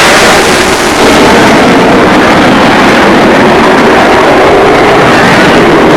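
Jet fighter's engines, a loud steady noise that holds near full scale and overloads the microphone.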